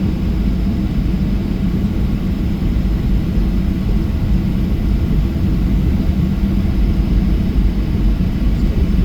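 Boeing 737-800's CFM56-7B jet engines heard from inside the passenger cabin: a steady low rumble with a constant hum, neither rising nor falling.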